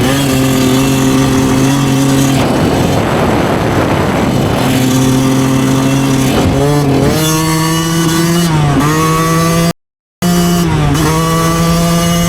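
2009 Yamaha YZ125 two-stroke single-cylinder dirt bike engine running under way, its note dipping and climbing again several times as the throttle and gears change. The sound cuts out completely for about half a second near ten seconds in.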